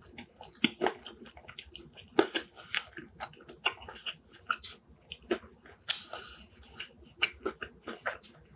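A person chewing a mouthful of chicken shawarma and fries, with irregular wet clicks and smacks from the mouth.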